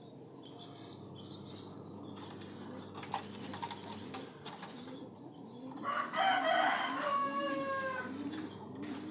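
A rooster crowing once, a long call of about two seconds that falls at its end, over low cooing repeated about once a second.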